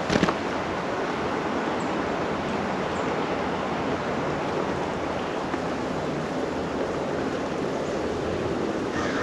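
Steady outdoor rushing noise, with a sharp knock about a quarter second in and a couple of faint, short, high chirps.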